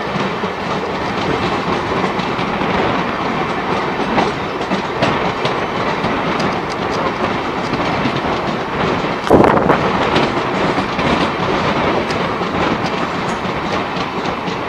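Indian Railways train running on the track: a steady rumble with wheels clicking over rail joints, and a brief louder burst about nine seconds in.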